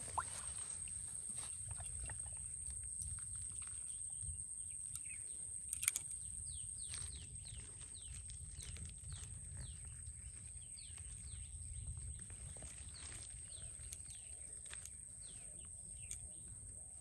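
Outdoor ambience with birds chirping: many short, quick, falling chirps from about five seconds in. A steady thin high whine and a low rumble run underneath, and a single sharp click comes near six seconds.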